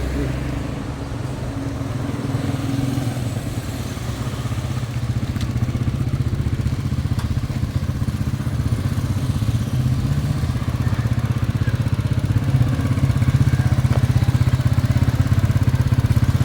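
Motorcycle engine running steadily with an even low hum, growing louder toward the end.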